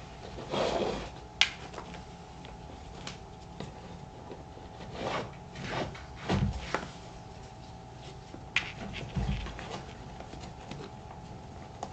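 Leather work boots being handled: scattered short rubs and swishes, a sharp click about a second and a half in, and a couple of soft thuds as the boots are moved and set down.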